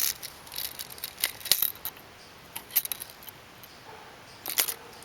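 Scattered light clicks and clinks of a metal-and-wood canoe motor mount being handled, a few spread out with a cluster near the end.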